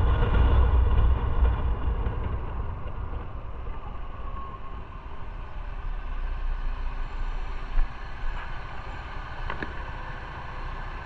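Motorcycle running on the road with a steady rumble and road noise, which eases off after about two seconds as the engine settles to a lighter load; a brief knock comes near the end.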